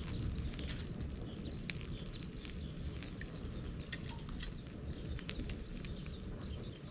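Bonfire of dried bamboo and brush burning: a steady low rush of flames with frequent sharp crackles and small pops.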